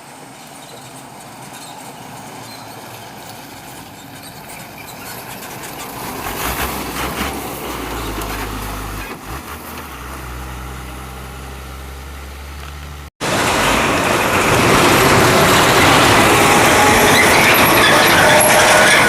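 Diesel engine of a loaded logging truck, growing louder as it approaches, its low engine note strongest from about six seconds in. About two-thirds of the way through there is an abrupt cut to a much louder, harsher truck sound close by.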